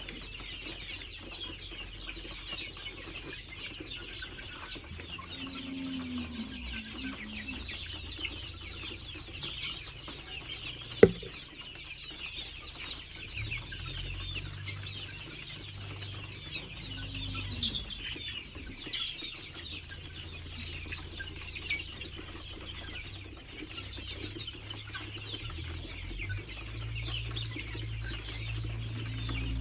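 A flock of farm chickens calling: a dense, unbroken chorus of many high, short calls with a few lower clucks among them. A single sharp knock stands out about eleven seconds in, and a low rumble comes in soon after.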